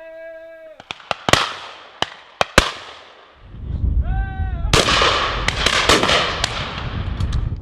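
Shotguns firing at driven pheasants passing high overhead: a few spaced single shots, then a rapid run of shots from several guns over a low rushing noise. A short pitched call is heard at the start and again about four seconds in.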